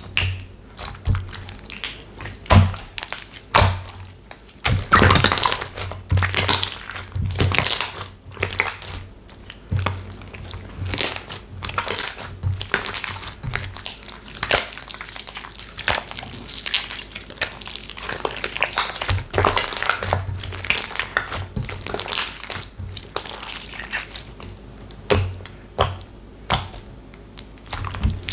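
Slime being squeezed and pressed by hand, giving dense, irregular crackling and popping clicks with soft squishes and thuds.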